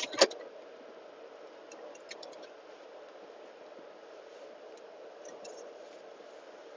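A single sharp click or knock just after the start, then a few faint ticks, over a steady low hum.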